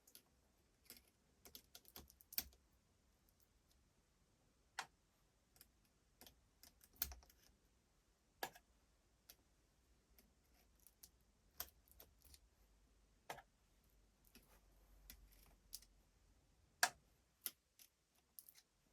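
Faint, irregular light clicks and taps of small hard parts and tools being handled, about one or two a second with uneven gaps.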